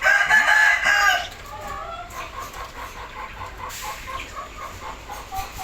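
Hornbill calling: a loud, harsh call about a second long at the start, then a run of short, quick notes at about four a second.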